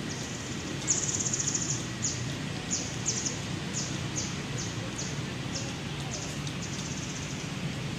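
A bird chirping over a steady low background rumble: a rapid high trill about a second in, then a string of short, high, slightly falling notes, one or two a second.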